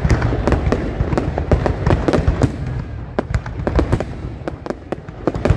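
Aerial fireworks display going off: rapid, irregular bangs and crackling pops, many per second, over a deep rumble of booms.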